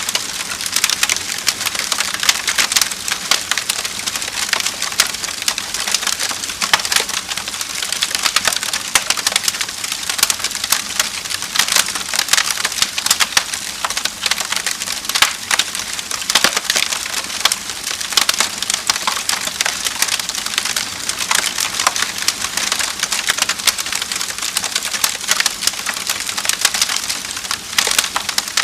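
Wood fire crackling steadily, a dense run of small snaps and pops.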